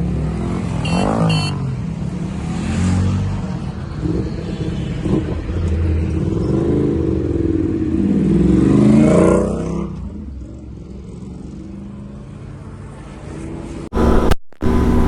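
Motorcycle engines revving and accelerating, the pitch rising and falling several times as they pull away and shift. It gets quieter about two-thirds of the way through, then cuts abruptly to louder engine noise near the end.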